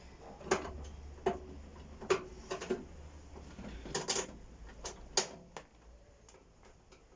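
Light clicks and knocks of hand tools and loose screws on a microwave's metal casing, about nine irregular taps over the first six seconds, dying away near the end.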